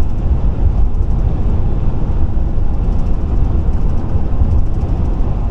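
Steady low rumble of a car driving at highway speed: road and engine noise with no change or sudden events.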